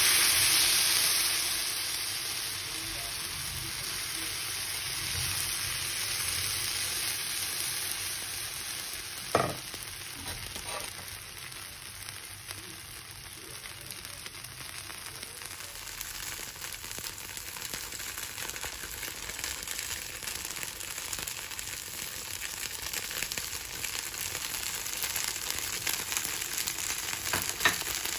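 Freshly poured rava dosa batter sizzling on a hot dosa pan (tawa). The sizzle is loudest in the first couple of seconds, then settles to a steady sizzle as the crepe cooks. There is a light knock about nine seconds in and another near the end.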